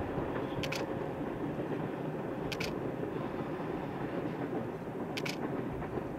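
Distant diesel-hauled passenger train rumbling steadily through the gorge. Three sharp camera shutter clicks come about a second in, a little before the middle, and about five seconds in.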